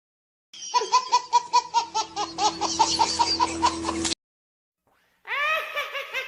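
Laughter in two bouts: a run of quick, rhythmic 'ha-ha' pulses lasting about three and a half seconds, a short silence, then a second giggling bout that starts about five seconds in and trails off.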